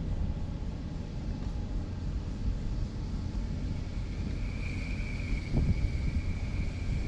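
Wind buffeting the microphone, a steady low rumble. A thin, steady high-pitched whine comes in about halfway through and holds.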